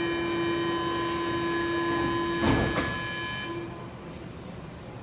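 Stockholm Metro train giving a steady electrical whine made of several fixed tones, with two sharp clunks about halfway through, after which the whine fades out.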